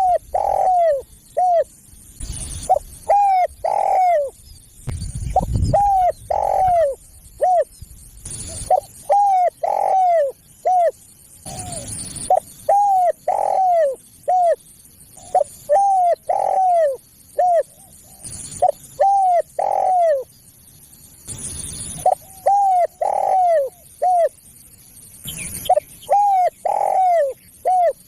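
Spotted dove cooing over and over in short phrases of several arched coos, each phrase repeating about every two seconds. It is a caller recording used to lure wild spotted doves.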